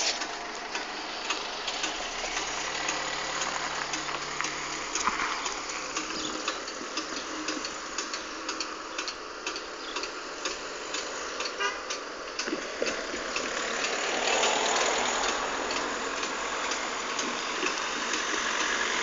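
Road vehicles idling by a level crossing, with a stream of light irregular ticks. From about two-thirds of the way in, a vehicle grows louder as it approaches.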